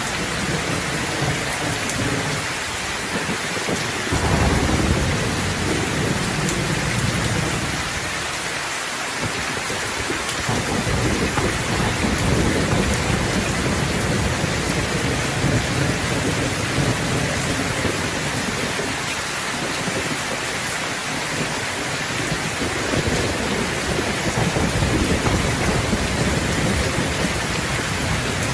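Steady heavy rainfall hissing, with rolling thunder rumbling low. The rumble swells up about four seconds in and returns twice more.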